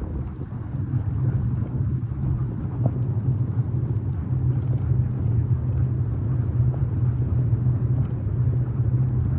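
Steady low rumble of a dog-pulled sled running over the snowy trail.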